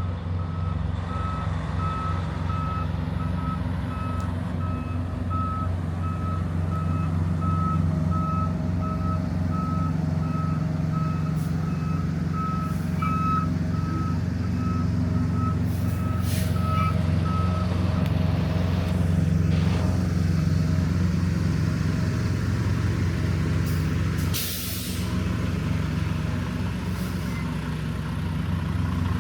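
A box truck's backup alarm beeping at a steady rate over the drone of its idling diesel engine while it reverses; the beeping stops about two-thirds of the way through. Near the end there is a short, sharp hiss of air as the air brakes are set.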